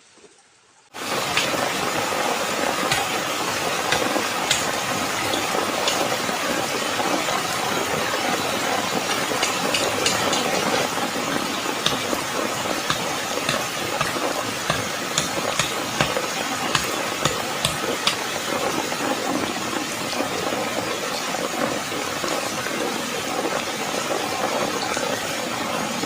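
Heavy rain falling: a dense, steady hiss with many small drop ticks through it, starting abruptly about a second in.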